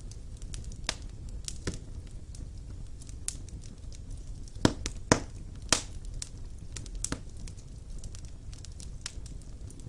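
Wood fire burning in a fireplace: a steady low rumble of flame with irregular sharp crackles and pops, three louder pops close together midway.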